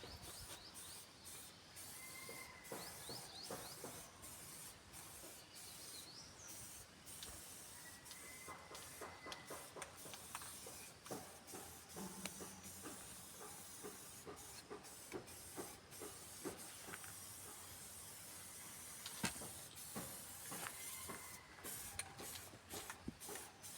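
Aerosol spray paint can hissing in repeated short bursts, faint. A few faint bird chirps.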